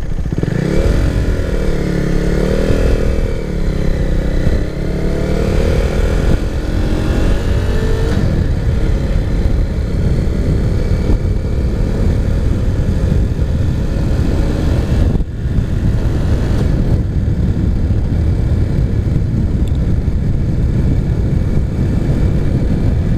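Husqvarna Svartpilen 401's single-cylinder engine running through an aftermarket Arrow exhaust while being ridden, with a deep exhaust note. Its pitch rises and falls over the first several seconds as the bike accelerates, then settles into a steady drone at cruising speed.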